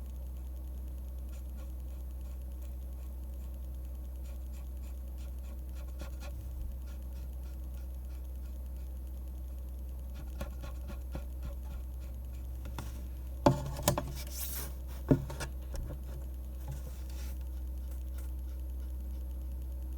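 Pen drawing on paper: faint, quick scratching strokes over a steady low hum. About two-thirds of the way through come a few sharp knocks and a brief rustle.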